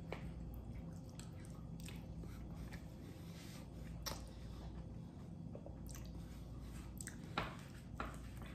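A man chewing a mouthful of food, wet and soft, with a few faint clicks and scrapes of a fork in a takeout bowl.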